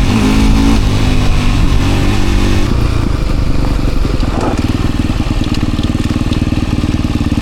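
Enduro dirt bike engine revving up and down for the first few seconds, then running at a steady, even speed.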